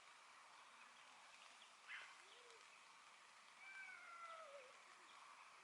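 Faint outdoor quiet with two animal calls: a short one about two seconds in, and a longer call that falls in pitch about four seconds in.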